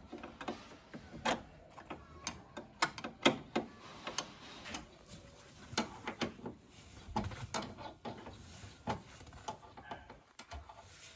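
Irregular sharp clicks and knocks of hand tools working on car parts, a few of them louder.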